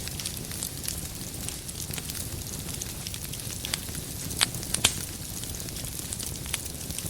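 Wood logs burning in a fireplace, crackling steadily with frequent small pops over a low rumble of flame. Two louder pops come close together a little past the middle.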